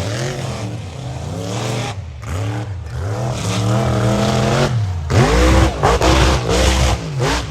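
Mega truck's engine revving hard and repeatedly, its pitch climbing and dropping with each blip of the throttle. From about five seconds in the revs come in louder, deeper, choppy bursts.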